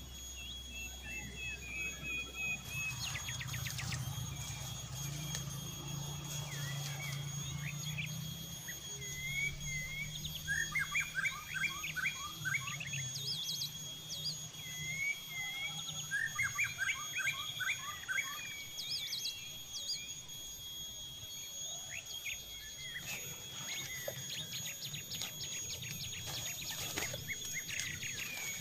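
Forest birds singing: chirps and two bursts of quick, rapid-note song phrases near the middle, over a steady high tone, with a few light clicks near the start and end.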